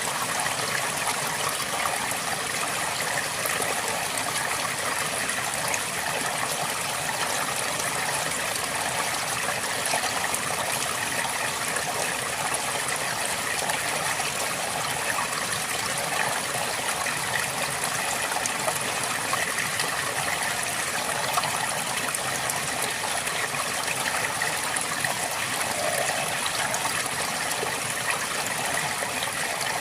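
River water flowing steadily over stones, an even rushing with small splashes and trickles.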